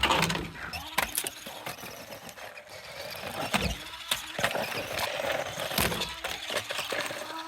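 Small electric RC monster truck (BlackZon Spryte, 1/20 scale, 4WD) running over rough ground: its wheels and plastic chassis clatter and rattle, with several sharp knocks scattered through.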